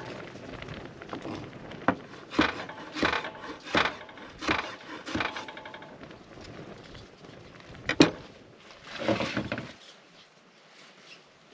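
Rhythmic rough strokes on wood, about three every two seconds, that stop about five and a half seconds in; a sharp crack about eight seconds in, then a brief rustle.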